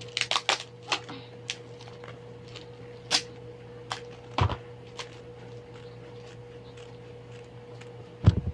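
Scattered clicks, rustles and a couple of soft knocks from paper and crafting tools being handled, over the steady hum of a room air conditioner.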